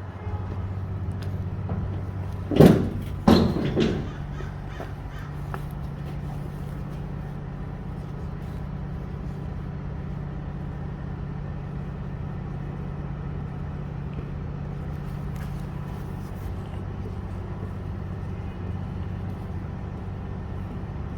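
A Peterbilt big rig's diesel engine running steadily with a low hum. A few loud, short, pitched calls, like caws, come a few seconds in.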